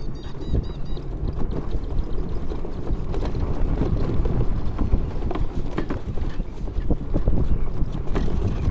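Wind rumbling on the microphone of a moving vehicle, with irregular knocks and rattles throughout.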